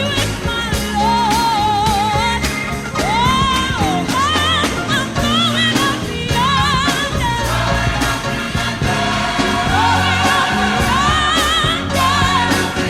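Gospel music: a singer's voice in long, wavering, gliding notes over bass and a steady beat.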